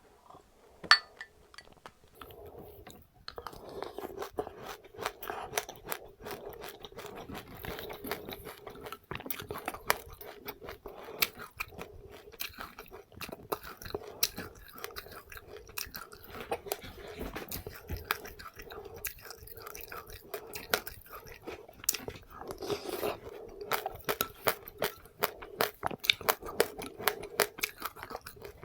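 A person chewing seeds with passionfruit, close to the microphone, the seeds cracking between the teeth in many crisp crunches. There is a single sharp click about a second in, and the steady chewing starts about three seconds in.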